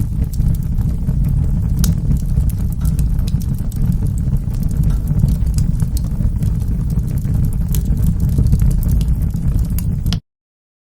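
Wood fire burning in a fireplace: a steady low rumble of flames with scattered sharp crackles and pops. About ten seconds in, the sound cuts out to complete silence for about a second.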